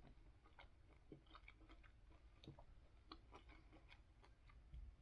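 Faint chewing of a large mouthful of juicy pineapple: soft, wet, irregular clicks and smacks from the mouth.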